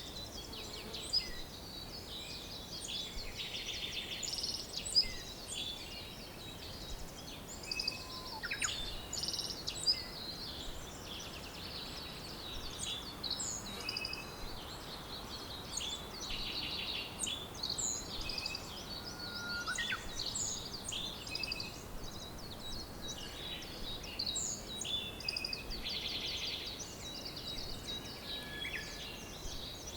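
A dawn-chorus-like mix of many songbirds chirping, trilling and whistling over one another without pause, with a few short whistles sliding down in pitch. A faint, even background hiss of outdoor ambience lies under the birds.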